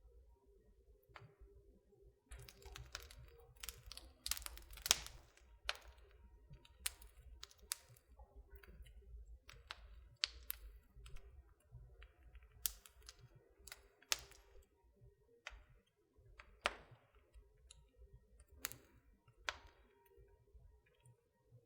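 Wood fire crackling in a fireplace: irregular sharp pops and snaps over a low steady rumble of the flames, busiest and loudest from about two to six seconds in.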